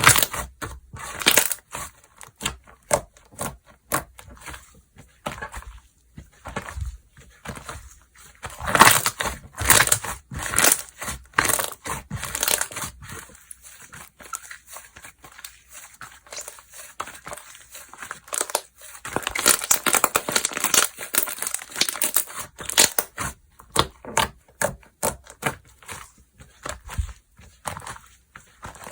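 Slime being squeezed, stretched and pressed by hand, making irregular crackling, popping clicks; the crackle is densest about two-thirds of the way through.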